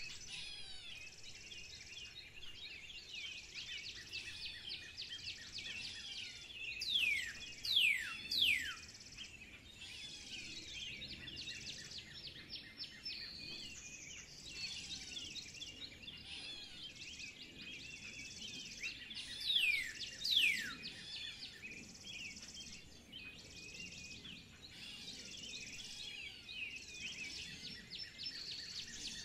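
Woodland birds chirping and calling steadily. A few loud, falling whistles stand out about seven seconds in and again about twenty seconds in.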